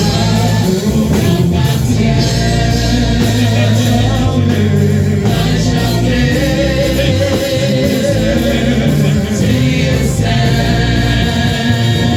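Gospel worship music played live: voices singing together over a band accompaniment, loud and continuous.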